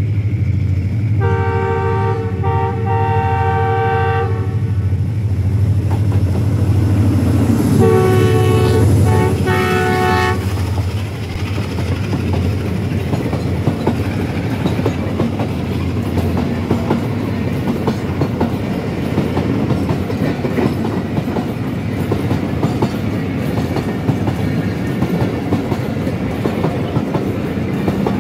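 Diesel locomotive of a freight train sounds its multi-tone horn twice, blasts of about three seconds each a few seconds apart, over the low rumble of its engine. Then its tank wagons roll past with a steady clickety-clack of wheels over the rails.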